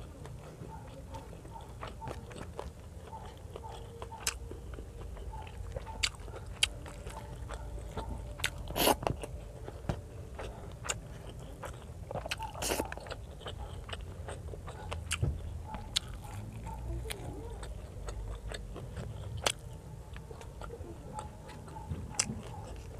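Close-miked chewing and wet mouth smacks of a person eating fried fish and rice by hand, with many short sharp clicks and two louder smacks about nine and thirteen seconds in.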